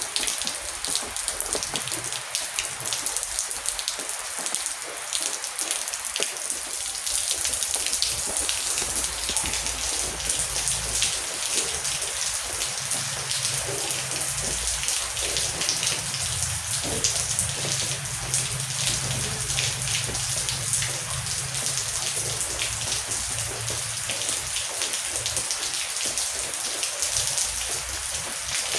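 Heavy rain falling steadily, a dense hiss full of individual drop hits. A low rumble sits underneath for several seconds in the middle.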